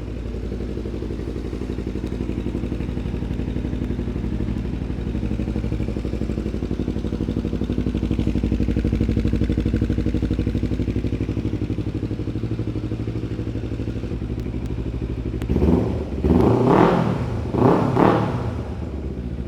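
Motorcycle engine idling steadily, then revved briefly two or three times near the end.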